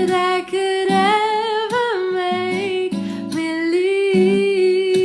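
Female singing voice holding long, sustained notes with no clear words, over a steady instrumental accompaniment.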